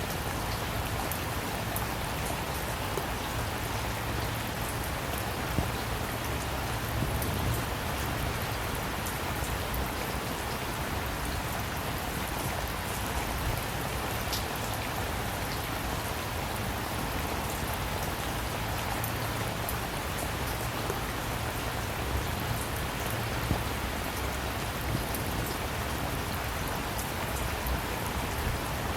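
Steady rain: an even hiss of rainfall with many individual drops ticking through it, a few a little louder than the rest.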